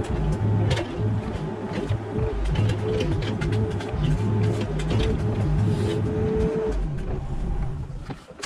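Mini excavator's diesel engine running with a steady hydraulic whine, and irregular clanks and scrapes from the working bucket. The whole sound drops away near the end.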